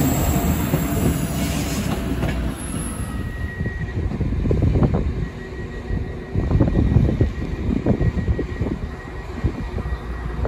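Transport for Wales diesel multiple unit running away over curved track, with a heavy low rumble and a faint wheel squeal about four seconds in. In the second half, wind gusts buffet the microphone.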